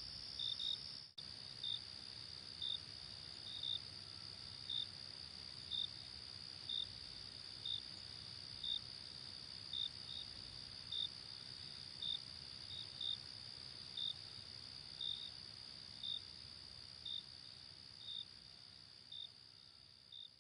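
Night crickets: a steady high trill with a sharper chirp about once a second, some chirps doubled. There is a brief dropout about a second in, and the sound fades out near the end.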